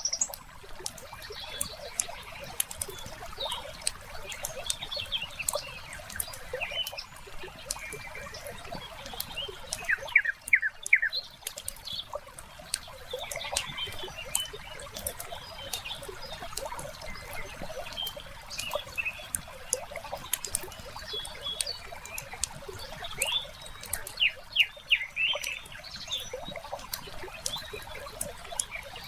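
Wood fire crackling, with a steady stream of small sharp pops and a few louder snaps. Birds chirp in short bursts, most about a third of the way in and again near the end.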